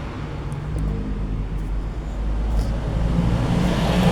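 Road traffic: a motor vehicle's low engine rumble, growing louder toward the end as it comes closer.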